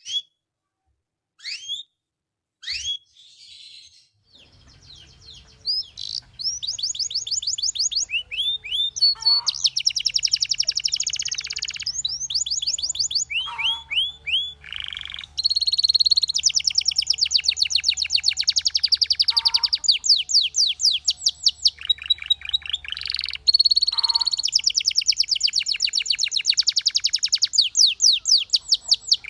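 Canary singing: a few separate chirps, then long rapid trills of quickly repeated notes broken by short pauses. A faint steady low hum lies underneath from about four seconds in.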